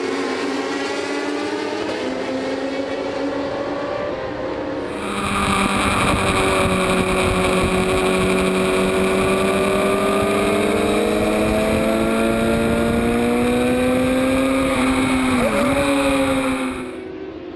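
Racing superbike engine at high revs, its pitch climbing slowly as it accelerates. It gets louder about five seconds in, with a quick drop and recovery in pitch near the end, then cuts off abruptly.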